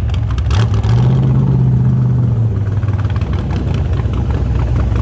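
Rat rod's engine running loud and low as it approaches, with a stronger steady drone held for about a second and a half, starting about a second in.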